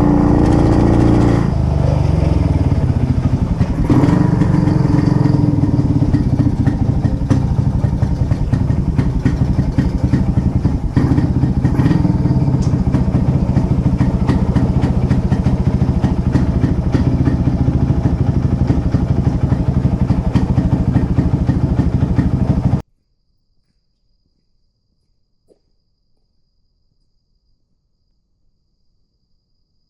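1950s Puch 250 TF's split-single two-stroke engine running under way, its pitch dropping and rising in the first few seconds as it slows and picks up again, then holding steady. It cuts off suddenly about 23 seconds in, leaving near silence with a faint thin high tone.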